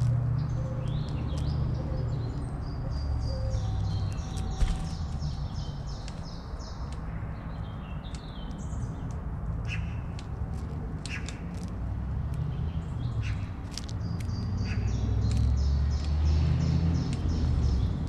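Several small birds chirping, with rapid runs of repeated high notes, densest early on and again near the end, over a steady low rumble.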